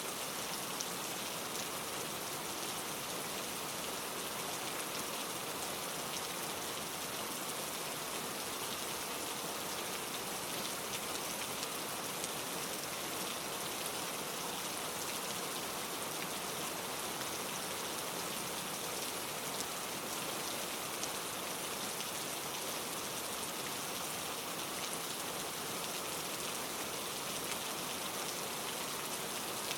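Steady rain falling: an even hiss with fine, scattered drop ticks.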